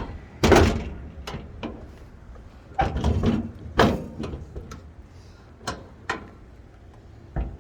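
A string of sharp metal clunks and knocks as the hood of a 1953 Chevy Bel Air is worked open by hand, its latch and hood panel being handled.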